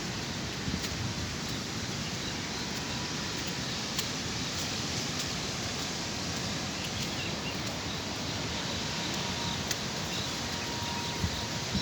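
Heavy rain falling steadily, an even hiss with a few sharp ticks of drops here and there.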